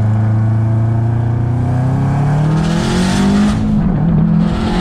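Car engine accelerating, its pitch climbing steadily for about three seconds and then holding. Two short bursts of hiss come through, one a little past halfway and one near the end.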